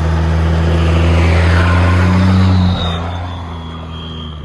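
Cummins diesel engine breathing through a 7-inch exhaust, revved and held, then dropping back when the throttle is let off about two-thirds of the way through. A turbo whistle carries on and falls away after the rev.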